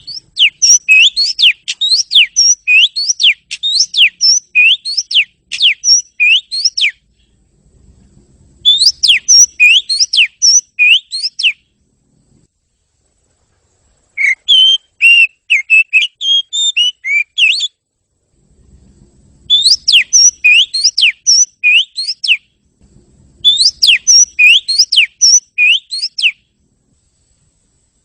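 Oriental magpie-robin (kacer) singing: five bouts of clear whistled notes, each note dropping in pitch, repeated about two a second, with short silent pauses between the bouts.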